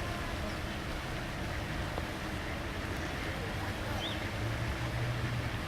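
Steady low background ambience with a low hum that swells slightly near the end, and one faint short high chirp about four seconds in.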